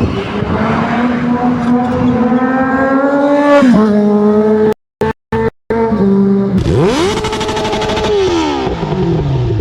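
Superbike engine accelerating hard: the pitch climbs steadily, drops sharply at a gear change and holds, then after a few abrupt cut-outs of sound it revs up quickly, holds high and falls away again near the end.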